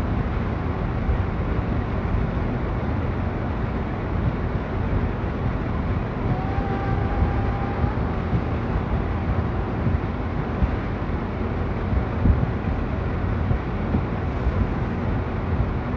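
Steady outdoor street ambience in a snowstorm: a constant low rumble and hiss, with a brief faint held tone about six seconds in.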